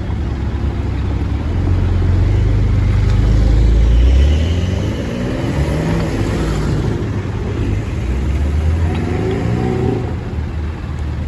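Several Porsche cars driving past one after another at low speed, their engines running and briefly revving. The pitch rises and falls as each car pulls away, and the sound is loudest about three to four seconds in.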